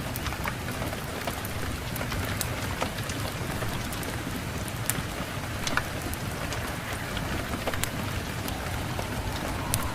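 Steady rain falling, with a low rumble underneath and scattered sharp clicks.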